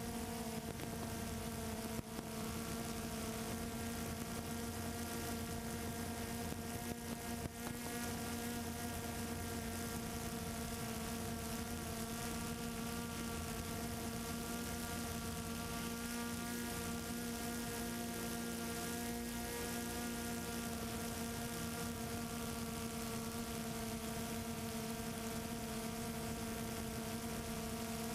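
Multirotor drone's electric motors and propellers humming steadily at an even pitch, picked up by the drone's own on-board camera.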